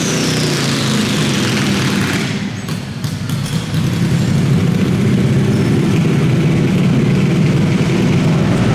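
Pulling garden tractor's engine running loud, with a high whine falling away over the first two seconds, a brief dip around three seconds in, then steady hard running.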